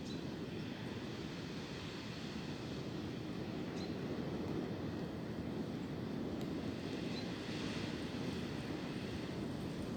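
Wind blowing steadily, a low rushing noise that builds slightly over the seconds.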